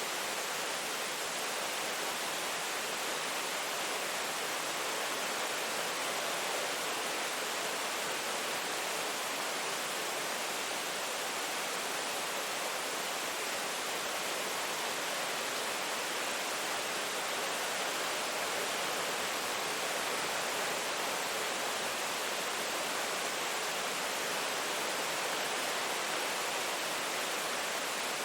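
Steady rain falling, an even, unchanging hiss with no separate drops or other sounds standing out.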